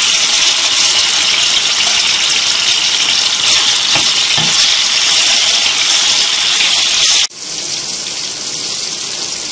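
Parboiled bitter gourd pieces sizzling as they fry in hot oil in a pan, stirred with a metal spoon. The sizzle drops suddenly to a softer level about seven seconds in.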